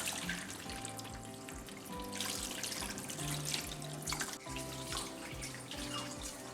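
Water running and splashing in a kitchen sink, in uneven swells, over soft background music.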